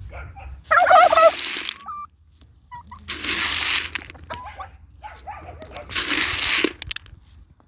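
Domestic fowl calling: a loud warbling call about a second in, then two harsh, raspy calls a few seconds apart, with short chirps between.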